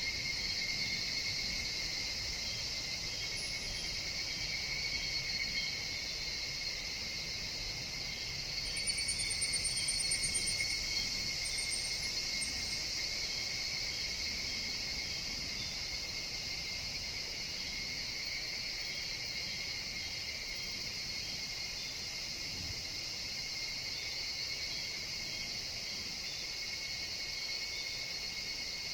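Chorus of higurashi (evening cicadas), a steady high shrill that runs on without a break, with a few brief, higher chirps over it and a short swell in loudness about nine seconds in.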